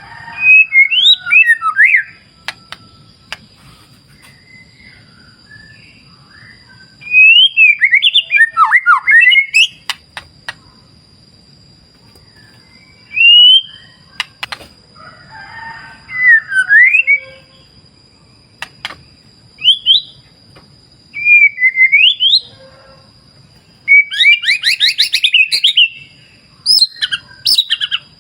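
White-rumped shama singing loud, varied phrases of quick whistled sweeps and rapid trills, with pauses of a few seconds between them and the densest run of trills near the end. A faint steady high-pitched tone runs underneath.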